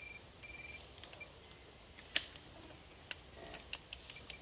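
Handheld metal-detector pinpointer buzzing with a rapid-pulsed high tone, twice in the first second and briefly again near the end, as it sounds over a target in the dug soil. A few small clicks and one sharp knock about two seconds in.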